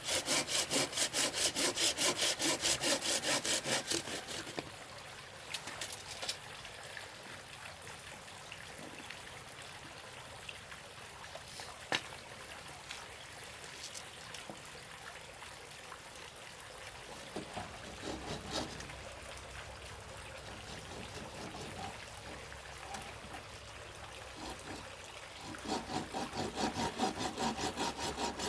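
Hand saw cutting wood in quick, even back-and-forth strokes. The sawing stops after about four seconds, leaving a quieter stretch with scattered light knocks and clicks, and starts again near the end.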